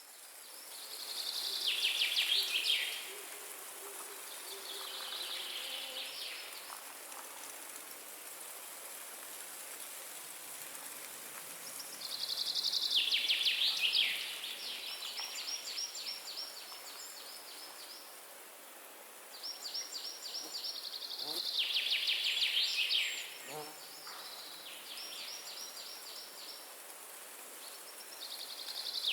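A songbird repeats a fast trilled phrase, a couple of seconds long and falling in pitch, every few seconds. Underneath is a steady hiss of wind in the forest trees.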